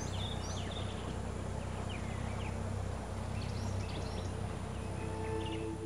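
Birds chirping in short, quick notes over a steady low rumble. Soft sustained musical tones fade in about five seconds in.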